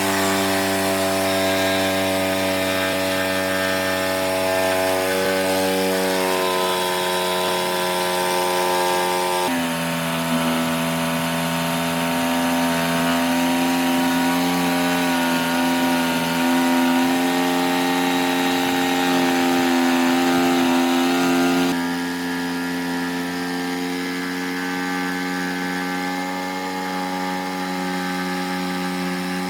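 Power tool motor running steadily with a constant whine. Its pitch shifts abruptly about a third of the way in and again near three quarters, as one run gives way to another.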